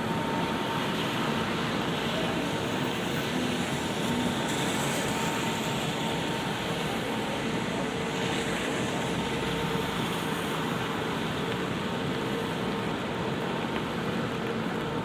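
Steady light rain falling on an umbrella, an even wash of patter, over a constant low mechanical hum of city traffic.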